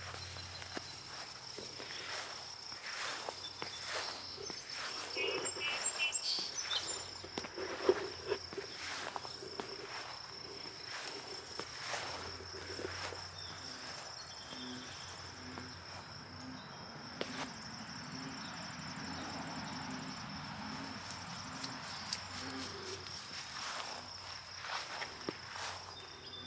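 Insects singing in one continuous high, steady tone, with irregular footsteps and small clicks; a sharp knock about eight seconds in is the loudest moment.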